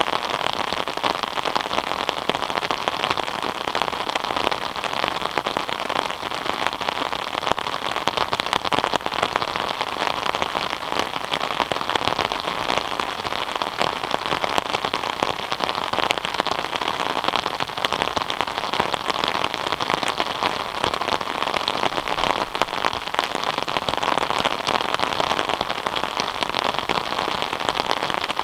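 Steady rain falling, a dense, even patter of drops with no let-up or change.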